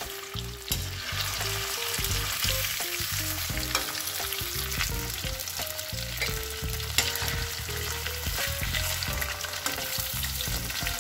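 Paneer cubes sizzling steadily as they fry in oil and butter in a kadhai. A spatula scrapes and knocks against the pan as the cubes are lifted out.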